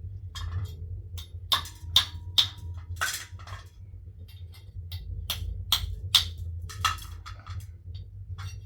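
A series of about a dozen irregular sharp knocks and clinks over a steady low hum.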